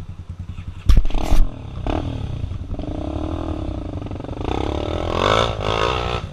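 Single-cylinder trail motorcycle engines running, with the throttle opened and the engine pitch rising and falling on a hill climb. Two loud knocks come about a second in.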